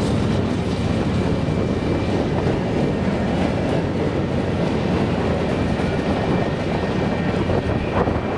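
Freight train of covered hopper cars rolling past at speed: a steady loud rumble and clatter of steel wheels on the rails.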